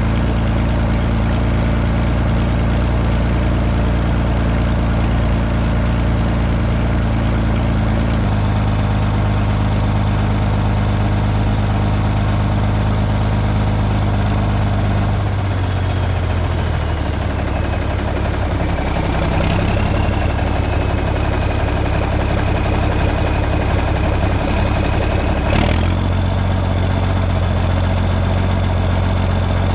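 John Deere 4630 tractor's straight-piped turbocharged six-cylinder diesel running, its engine speed shifting up and down several times.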